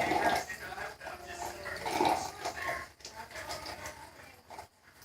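A dog whimpering and whining in a few short cries, the loudest about two seconds in.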